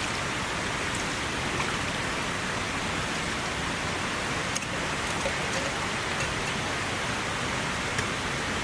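Heavy rain falling steadily, with scattered sharp ticks of single drops striking a surface.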